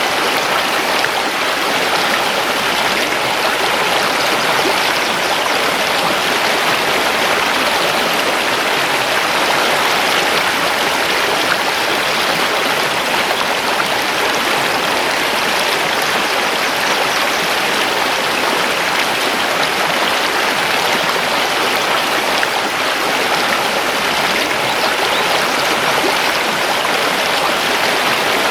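Mountain river rushing and splashing over stones, a steady, even water noise.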